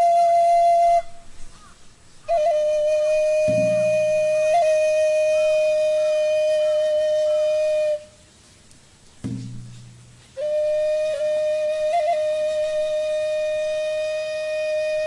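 Flute playing long, steady held notes with a few small ornaments, broken by two short pauses. A low struck note rings out and fades twice, about three and a half and nine seconds in.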